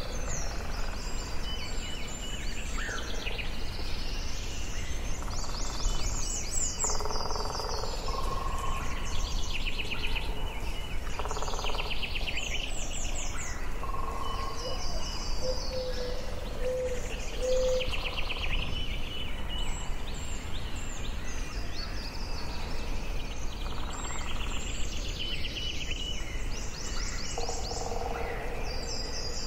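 Forest ambience: several birds singing at once, short repeated trills and chirps overlapping, with a few lower whistled notes, over a steady low background rumble.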